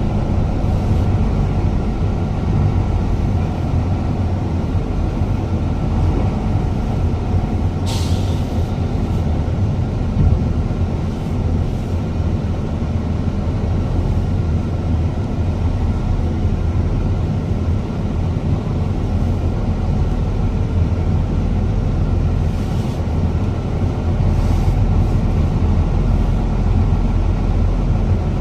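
Heavy truck engine running steadily at low revs, with one short, sharp hiss about eight seconds in.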